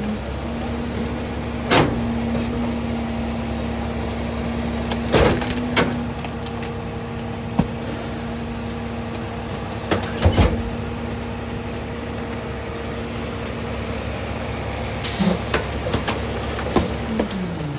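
Garbage truck engine revving up to drive the packer hydraulics as the load is compacted, holding a steady raised speed before dropping back to idle near the end. Several sharp bangs and cracks of trash being crushed, the loudest about ten seconds in.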